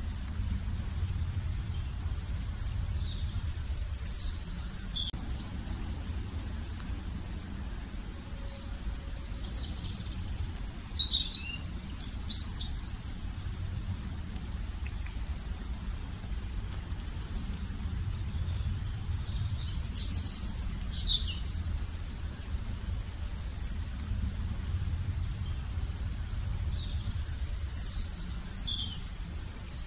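A songbird singing short phrases of high, quickly falling notes, repeated about every eight seconds, over a low steady rumble.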